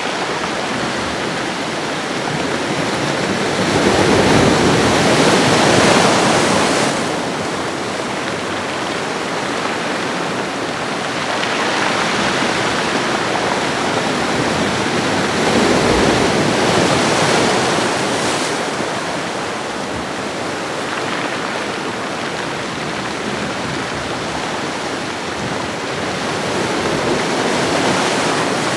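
Ocean waves washing onto a shore in a continuous rushing hiss that swells and ebbs, with bigger surges about 4 to 7 seconds in, again around 12 to 18 seconds, and near the end.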